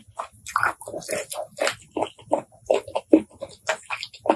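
Close-miked chewing of shellfish meat: wet, irregular smacks and squelches of lips and mouth, several a second.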